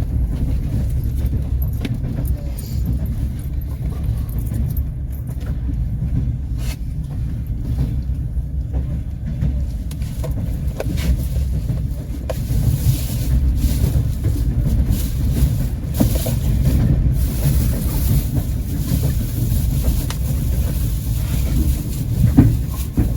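Passenger train in motion: the steady low rumble of the carriage running on the rails, with scattered sharp clicks of the wheels over rail joints. From about halfway through, a hiss of rushing air joins in.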